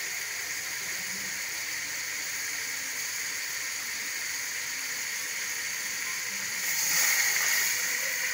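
Chicken masala frying in ghee in a cooking pot, a steady hiss and sizzle that grows louder about seven seconds in.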